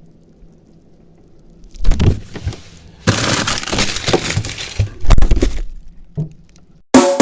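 Faint hum, then from about two seconds in roughly four seconds of loud, harsh crashing and crackling noise like breaking glass. Near the end loud music with drums cuts in suddenly.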